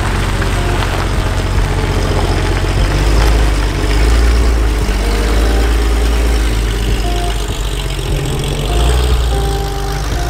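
Air-cooled flat-six of a 993-generation Porsche 911 running at low revs as the car rolls slowly past, its note swelling slightly a couple of times.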